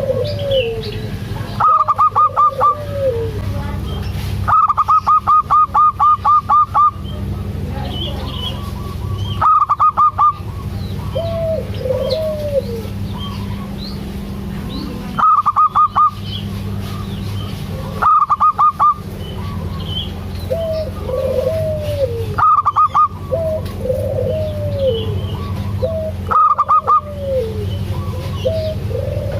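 Perkutut (zebra doves) calling: loud runs of rapid short notes every few seconds, with softer rising-and-falling coos between them over a steady low hum.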